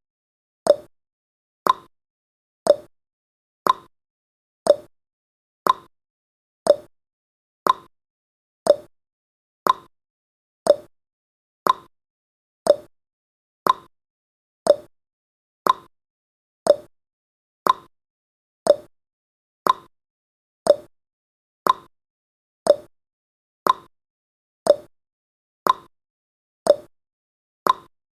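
Countdown timer's clock-tick sound effect: a sharp tick about once a second, alternating between a higher and a lower tick like a tick-tock.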